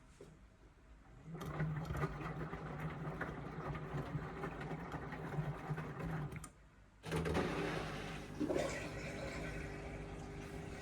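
Indesit washing machine mid-cycle on an Express wash: water rushing through it with a steady low hum, starting about a second and a half in, cutting out briefly a little past halfway, then running on.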